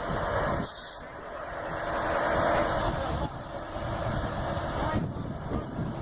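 Heavy truck engine running under load, noisy and rough, growing louder for a couple of seconds after a brief high hiss about a second in.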